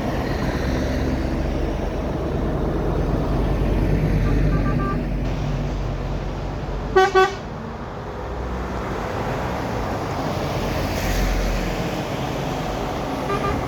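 Trucks running past with a steady engine rumble, and a vehicle horn giving two short toots about halfway through, the loudest sound; fainter horn toots come a few seconds earlier and near the end.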